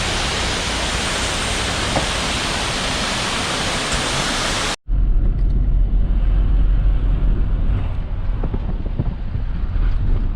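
Steady roar of a waterfall. About five seconds in it cuts off abruptly and gives way to a deep, uneven low rumble, like wind buffeting the microphone.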